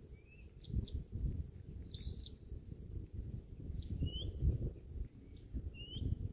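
Birds chirping: a few short, sparse calls, some sliding in pitch, over a low uneven rumble.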